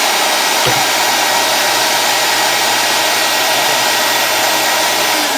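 Commercial upright vacuum cleaner motor running at full speed with a loud, steady whine. A single knock comes about a second in, and right at the end the motor is switched off and its whine starts to fall.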